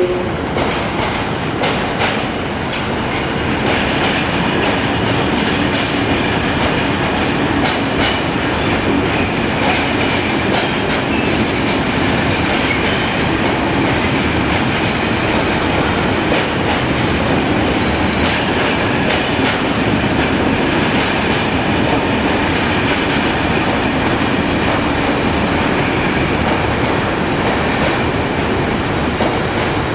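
Train running along the track: a steady rumble with the clickety-clack of wheels passing over rail joints, heard as repeated sharp clicks.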